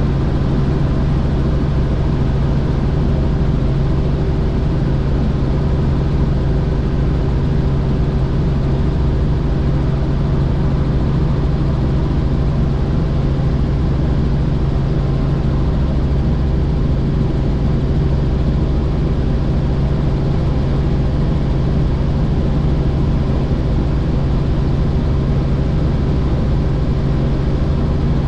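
Helicopter in steady flight: a loud, constant drone of engine and rotor with a steady low hum that does not change.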